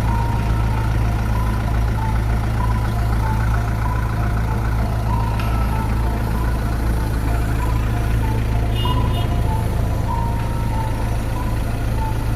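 Heavy vehicle engine idling steadily, a loud, constant deep hum.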